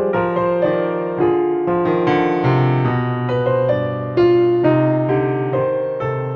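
Soft, slow piano music: notes played one after another over held low bass notes.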